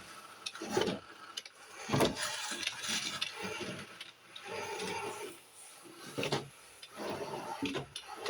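Roomba robot vacuum driving about and rubbing along obstacles, with a few sharp knocks, loudest about two seconds in, as its bumper runs into things.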